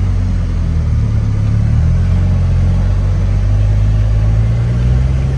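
The Ranger's engine running steadily at low revs as it drives along, with a low drone and a slight change in pitch about two seconds in.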